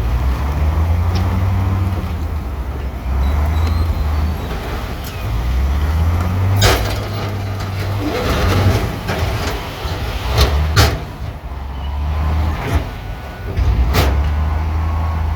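Bulldozer's diesel engine running with a deep, rising and falling rumble under load, with four sharp clanks, two of them close together past the middle.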